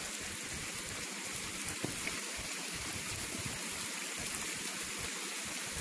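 Thunderstorm rain falling steadily, an even hiss with no thunder.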